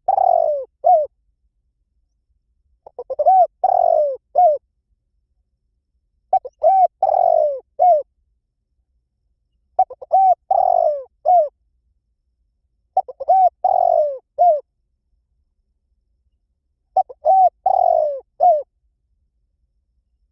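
Spotted dove cooing its song: a phrase of several short, arching coos, repeated about every three and a half seconds, six times, with silence between phrases.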